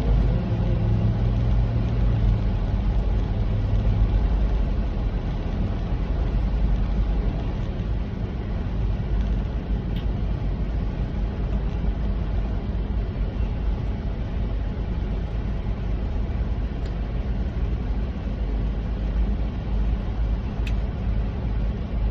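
Steady engine and road rumble inside a moving semi truck's cab, with a pitched engine drone that drops away about four seconds in.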